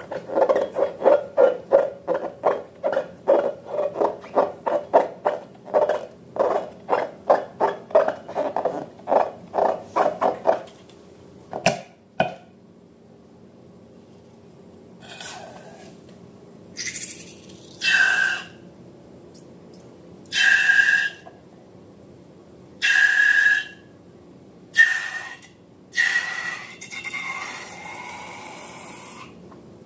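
Slime being worked by hand: quick, even squelching strokes, about three a second, for the first ten seconds. After a pause come several separate short squeaky rushes, each about a second long.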